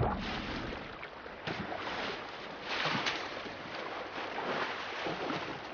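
Water rushing and splashing, swelling twice.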